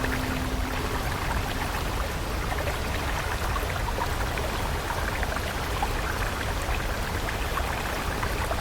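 Flowing stream water, a steady rush with many small trickling splashes. A low held tone from the background music stops about two seconds in.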